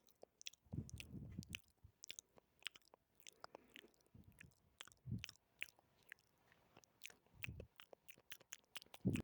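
Close-miked ASMR mouth sounds: quiet, irregular wet clicks and smacks of lips and tongue, with a few fuller, lower smacks in between.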